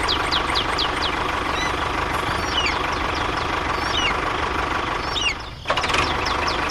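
A small engine running steadily, with repeated bird chirps over it. The sound drops out briefly about five and a half seconds in.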